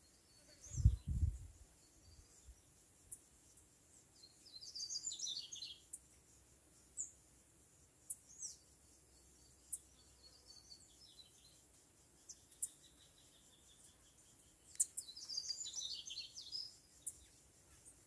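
A small bird singing from the fruiting tree in two short, high warbling bursts, about four seconds in and again near the end, with scattered single chirps between them. A brief low thump sounds about a second in.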